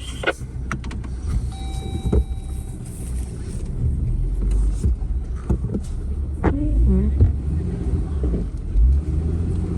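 Recovery vehicle's engine running low and steady as it backs up slowly to take the tension out of a tow rope, with scattered knocks and clunks and a short beep about one and a half seconds in.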